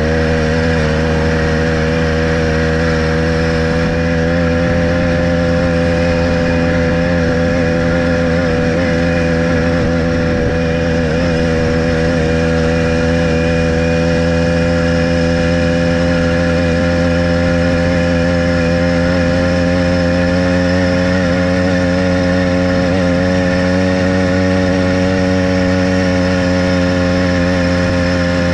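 Motorized bicycle's small gasoline engine running steadily under way, holding an even pitch at a constant cruising speed.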